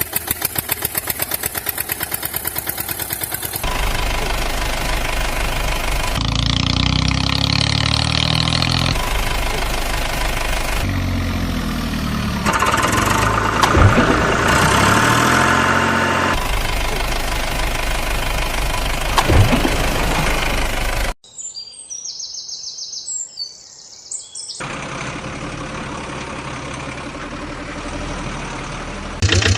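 Vehicle engines running and idling in a series of short clips, the sound changing abruptly every few seconds, with a quieter stretch about two-thirds of the way through.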